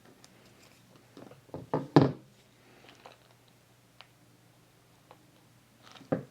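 Tabletop handling noises from paper crafting: a quick cluster of knocks and taps, loudest about two seconds in, a couple of light ticks, and another knock near the end, over a faint steady hum.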